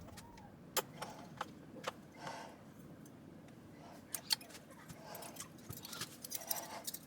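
Scattered light clicks and clinks of small hard objects being handled, the sharpest about a second in and again past the middle, with soft rustling between them.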